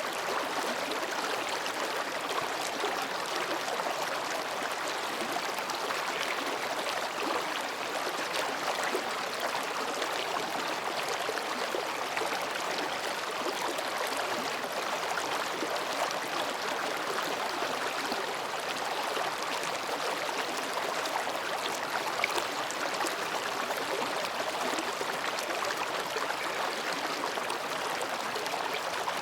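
Mountain stream babbling over and between rocks, a steady, even rush of flowing water.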